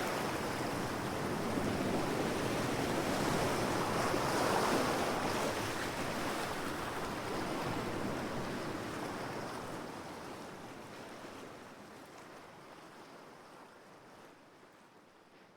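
Ocean waves washing on the shore in a steady rushing noise, which fades away smoothly over the second half and is nearly gone by the end.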